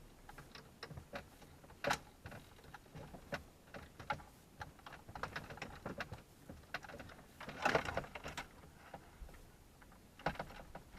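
Plastic dashboard trim and parts being handled: irregular sharp clicks and taps, with a longer scraping rustle of plastic about eight seconds in.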